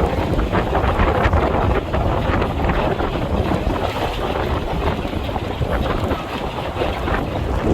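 Wind buffeting the microphone over the low rumble of a moving vehicle, steady and loud throughout.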